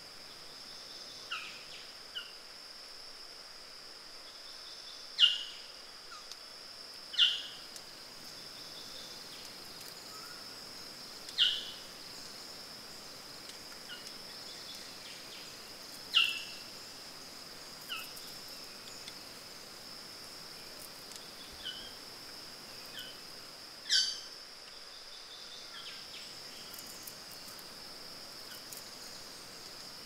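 Steady high-pitched insect drone in the forest, broken by short, sharp bird calls that drop in pitch. About nine calls come at irregular intervals of a few seconds, the loudest around five, seven, eleven, sixteen and twenty-four seconds in.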